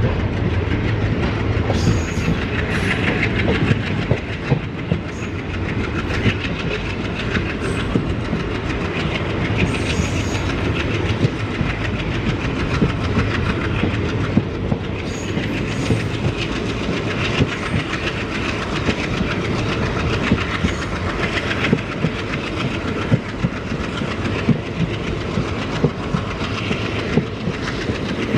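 Passenger train running at speed, heard from on board: a steady rumble with wheels clicking over rail joints in irregular sharp clacks.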